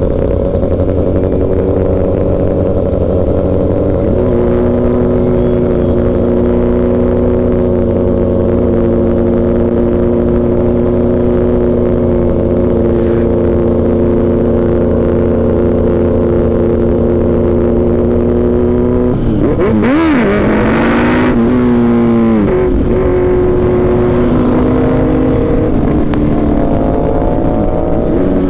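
Kawasaki Z900's inline-four engine running steadily under way. Its pitch steps up about four seconds in, wavers with a brief loud rush of noise around twenty seconds in, and rises near the end as the bike accelerates.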